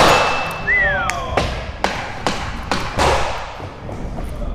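Skateboards knocking and slapping on a flat floor: a loud landing impact at the start, then a run of sharp board knocks about every half second over the next two seconds. About a second in there is a short falling squeak-like tone.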